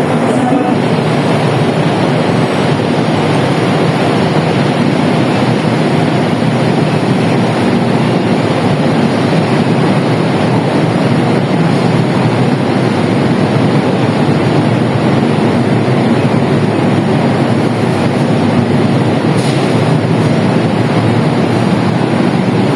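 Train running past at close range: a loud, steady rumble of wheels on rails that holds evenly throughout.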